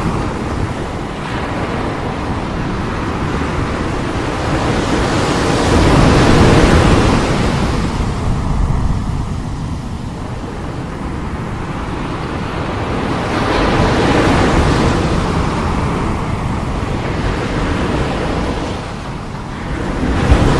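Strong sea waves breaking and washing ashore in slow swells, the loudest about six seconds in and again near the middle, with wind buffeting the microphone.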